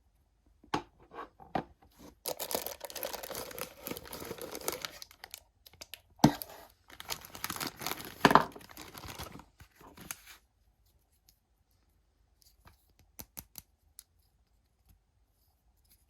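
Toy packaging being torn and crinkled open in two spells, with small clicks and taps, then a few light clicks.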